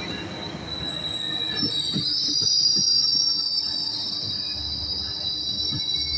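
Metrolink bilevel passenger cars rolling past as the train pulls into the station. About a second and a half in, a high-pitched wheel-and-brake squeal sets in and holds, as the train brakes to a stop. A few low wheel clunks sound under the squeal.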